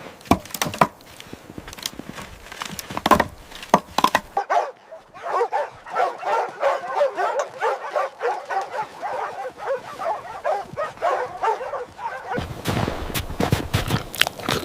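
Several canines yipping and whining in rapid, overlapping chatter for about eight seconds, with sharp knocks before and after.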